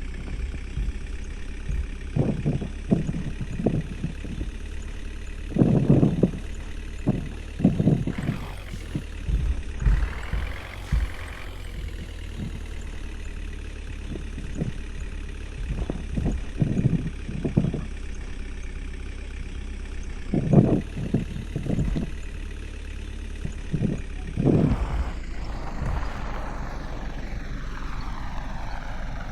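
Water tanker truck's engine running steadily, with repeated knocks and rattles from the vehicle throughout; twice the engine note sweeps up and down.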